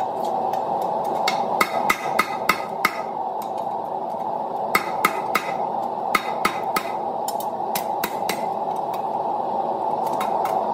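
Blacksmith's hammer striking hot 1/2-inch square steel bar on an anvil, in quick runs of ringing blows separated by short pauses, over a steady rushing noise.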